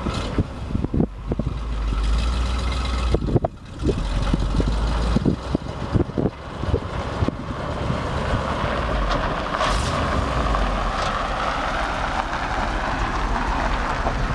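1971 Chevrolet C-60 grain truck running with a low engine rumble. A series of knocks and clunks comes through the first half, and a steadier rushing noise takes over in the second half.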